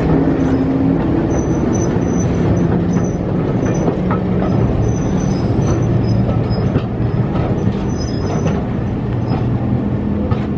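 Heritage passenger train running on the line: a steady loud rumble with a low hum throughout, and short high wheel squeals now and then.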